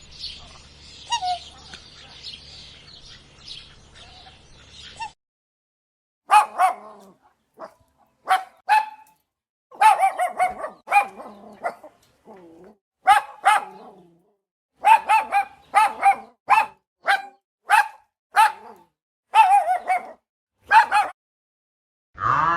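A dog barking: about twenty short, sharp, fairly high-pitched barks in quick runs, starting about six seconds in, after a few seconds of faint chirping.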